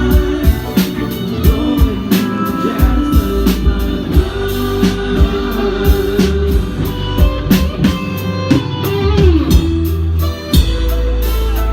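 Live rock band playing, with electric guitar lines over a steady drum kit beat and bass.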